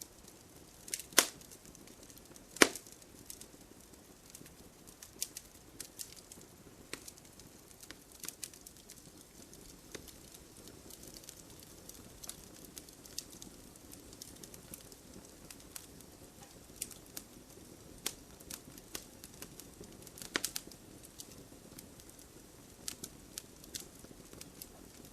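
Wood fire in a fireplace crackling: irregular sharp pops and snaps over a soft steady hiss. Two loud pops come about a second and a half apart near the start, and another cluster of louder pops comes later.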